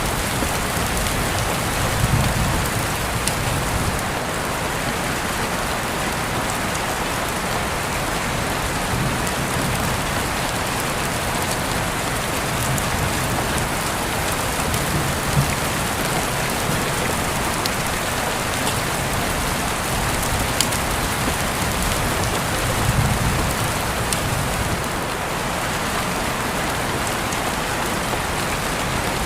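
Steady rain falling, an even hiss with a few sharper drops ticking close by. Two brief low rumbles swell up, about two seconds in and again near the end.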